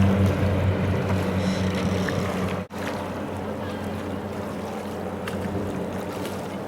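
Floatplane engine running steadily on the harbour, a low droning hum. It cuts out for an instant a little under three seconds in, then carries on quieter.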